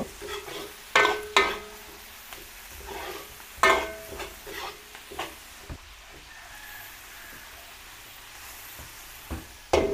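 Chopped onions and garlic sizzling in hot oil and margarine in a large metal wok, stirred with a metal ladle that knocks against the wok several times, each knock ringing briefly.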